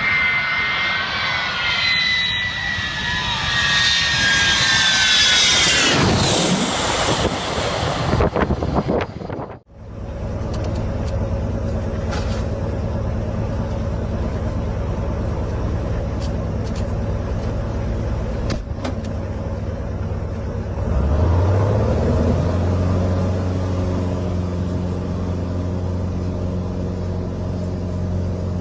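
Aircraft engines. First a loud jet whine passes close by, its tones falling in pitch. After an abrupt cut about ten seconds in comes a steady low engine drone, which rises in pitch a little past the two-thirds mark and then holds.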